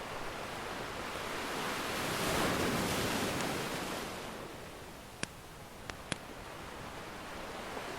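Ocean surf: one wave washes in, swelling to a peak in the first half and fading away. A few sharp pops from a crackling wood fire come over it about two-thirds of the way in.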